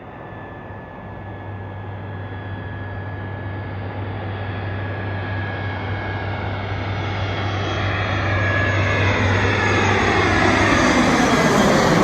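Jet airliner on landing approach, its engines growing steadily louder as it nears, with a thin high whine over a low hum and a sweeping sound near the end as it passes close.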